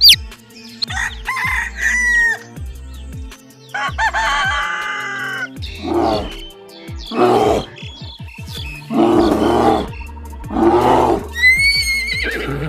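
A series of separate animal calls, each half a second to a second and a half long, over background music with a steady low beat.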